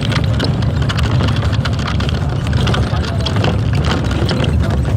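Steady low rumble of a motor vehicle running, with indistinct voices over it.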